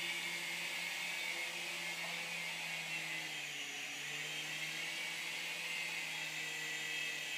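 Small remote-control helicopter's electric motor and rotor whirring steadily in flight, with a slight dip in pitch about halfway through.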